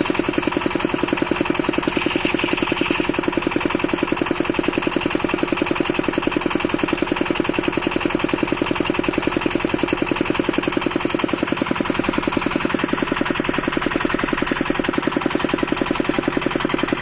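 Car engine idling, with a regular pulsing beat and a steady high whistle. The whistle came on along with the clutch starting to drag.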